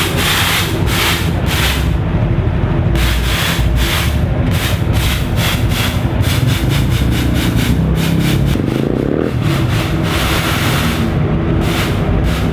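Car engines running, with a rapid rasping crackle over a steady low rumble; one engine revs up and back down about two-thirds of the way through.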